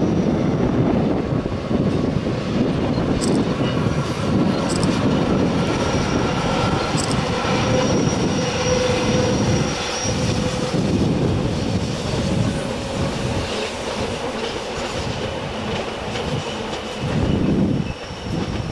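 Rhaetian Railway passenger train, an electric locomotive hauling red coaches, rolling across a stone viaduct. The wheels rumble and clatter on the rails, with thin steady wheel-squeal tones above, and the sound eases somewhat in the second half as the train passes.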